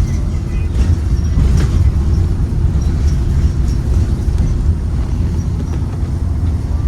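Ride noise inside a 2023 Blue Bird Vision school bus: its Ford 7.3L V8 engine and the road make a steady, loud, low rumble, with a few faint rattles.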